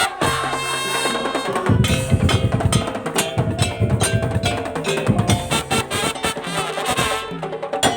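Madurese daul (tongtong) percussion ensemble playing: rapid strikes on wooden slit drums and drums under a sustained melody line, with heavy low drumming coming in about two seconds in.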